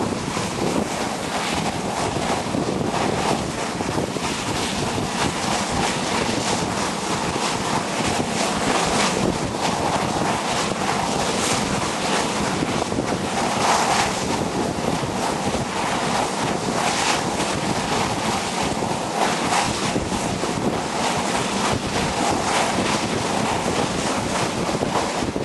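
Steady rushing noise with wind buffeting the microphone, surging every second or so.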